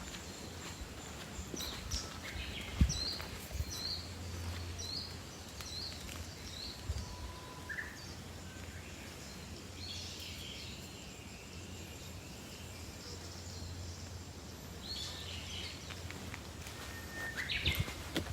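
Wild birds calling in a forest: a run of about seven short, evenly spaced high chirps a few seconds in, then scattered calls, over a steady low rumble.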